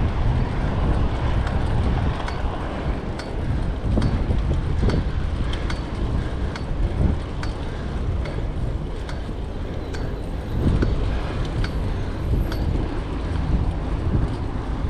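Wind buffeting the microphone on a moving fixed-gear bicycle, a steady low rumble, with light sharp ticks about twice a second from the rolling bike.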